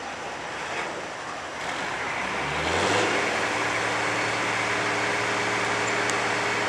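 Street stock semi truck's diesel engine: a noisy rumble, then about two and a half seconds in the revs climb and settle into a steady, louder drone that holds.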